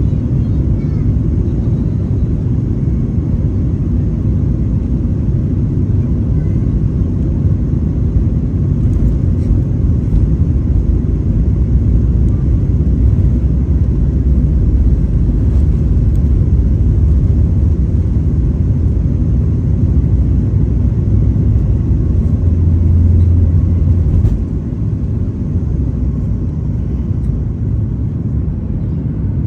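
Cabin noise of a Boeing 737 MAX 9 climbing after takeoff: a steady, loud low rumble of the CFM LEAP-1B engines and airflow. It drops a step in loudness about five seconds before the end.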